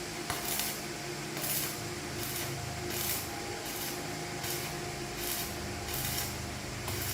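Short hissing bursts repeating about once a second over a steady machine hum.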